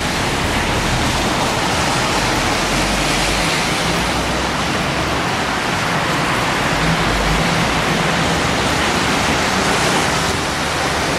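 Strong wind blowing across the microphone, a steady loud rushing noise with a low rumble.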